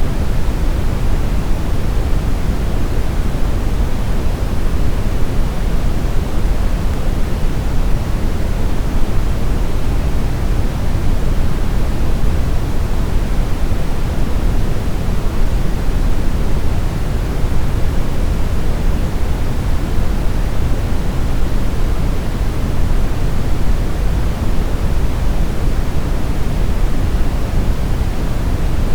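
Smoothed brown noise: a steady, even hiss-like rush weighted heavily toward the low end, with no tones, rhythm or changes.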